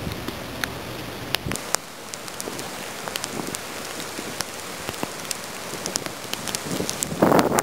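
Steady rain, with scattered drops ticking sharply close by. A brief louder rush of wind noise comes near the end.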